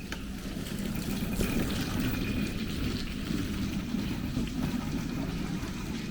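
Steady low rumble of outdoor street ambience, with a few faint clicks.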